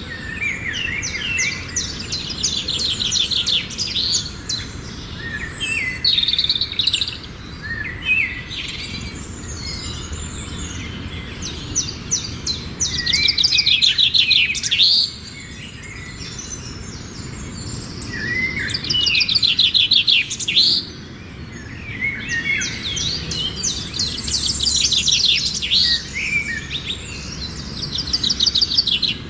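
Birdsong: phrases of rapid trilled notes with slurred whistles, repeated every few seconds over a steady low background rumble.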